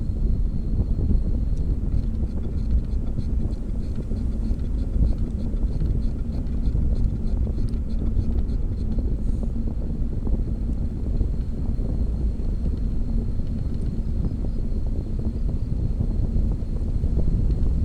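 Wind rushing over the microphone while riding a bicycle, a steady low rumble, with a faint rapid ticking for several seconds in the first half.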